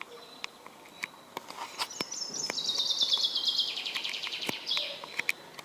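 A songbird singing one fast trill of repeated notes that steps down in pitch over about two seconds, ending in a short flourish. Scattered sharp ticks sound around it.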